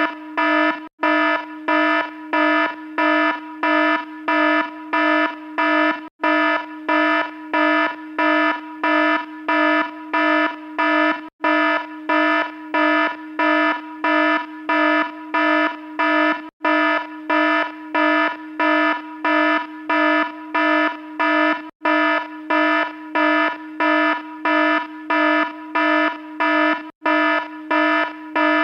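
An alarm sounding a harsh, buzzy tone in rapid pulses, about two a second, with a very brief break about every five seconds.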